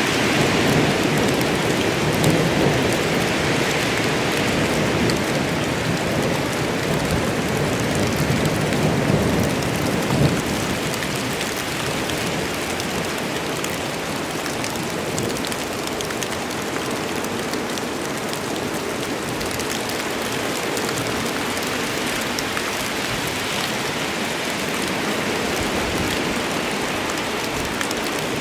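Heavy rain falling steadily on a forest. A low rumble of thunder runs under it for the first ten seconds or so and fades.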